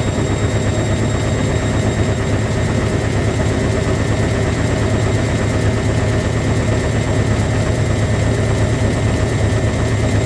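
Washing machine drum spinning at speed: a loud, steady hum with a fast, even throb.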